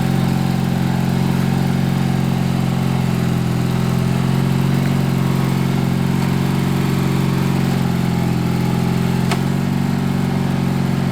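Craftsman LT4000 lawn tractor's vertical-shaft engine running at a steady speed, with a brief click about nine seconds in.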